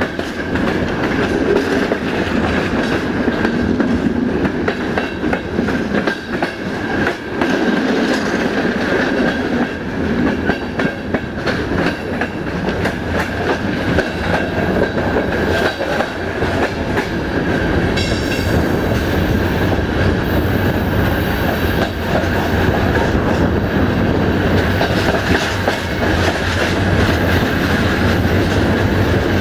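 Passenger train coaches running along the track, heard from an open coach window: a continuous rolling rumble with the wheels clacking over the rail joints.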